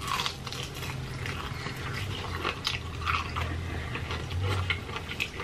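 Two people biting into and chewing crispy fried chicken, with many small irregular crunches of the breading, over a low steady hum.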